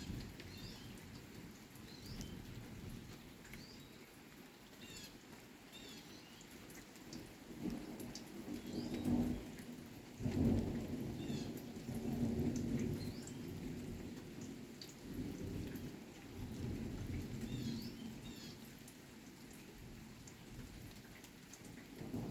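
Thunder rumbling over steady rain, the rumble swelling to its loudest about nine to eleven seconds in and then rolling on more softly. Birds chirp in short high notes throughout.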